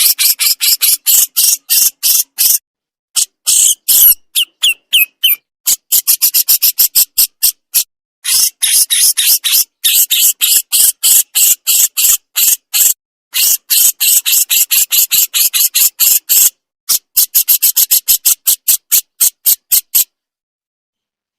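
Cucak jenggot (grey-cheeked bulbul) giving harsh, rapid rattling calls ('besetan'), about five a second in long strings broken by short pauses, stopping about two-thirds of the way into the last stretch and falling silent near the end.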